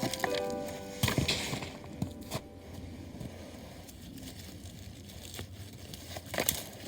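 Light rustling with a few sharp clicks and knocks, the sound of things being handled. Background music fades out in the first second.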